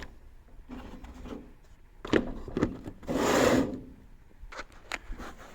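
Handling noise as things in a truck storage compartment are moved about: a few light knocks and clicks, and one louder rubbing scrape about three seconds in.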